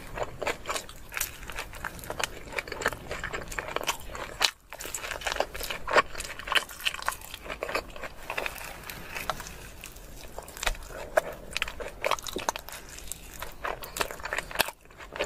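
Close-miked biting and chewing of deep-dish pizza: crunching crust and many quick wet mouth clicks, with two brief drop-outs.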